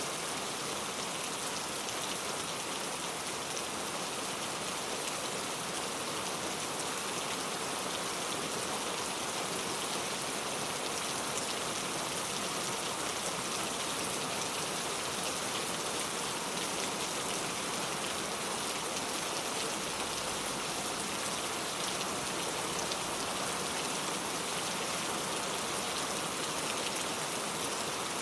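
Steady rain falling, a dense even hiss of drops with fine pattering throughout.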